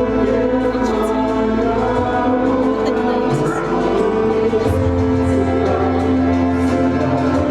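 Music with a choir singing long held chords, a deeper bass note coming in about two-thirds of the way through.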